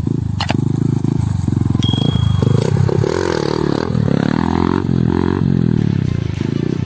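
Yamaha R15's 150cc single-cylinder motorcycle engine running and revving, its pitch rising and falling.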